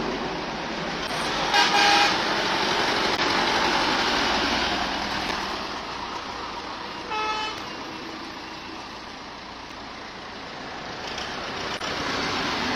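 Tafe Gajraj 5900 DI tractor's diesel engine running, with two short horn toots, one about two seconds in and another about seven seconds in.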